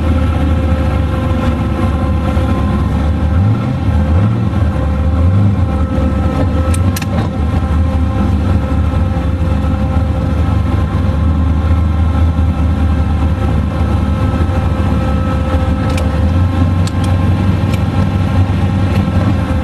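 Twin-turbo 472 cubic-inch Mopar V8 of a Valiant Charger running steadily at low speed, low-pitched and loud. A few light clicks come through near the middle and near the end.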